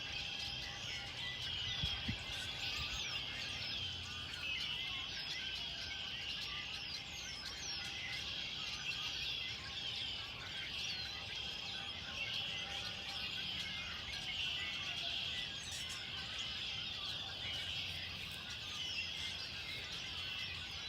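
A dense chorus of many birds singing and chirping together, short overlapping high chirps and trills that never stop, over a low rumble of background noise.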